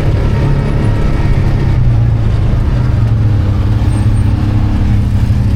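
ATV engine running steadily under way, its note stepping up slightly about two seconds in.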